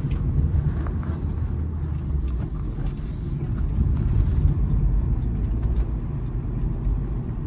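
Honda City car driving along a rough, uneven road: a steady low rumble of engine and tyres.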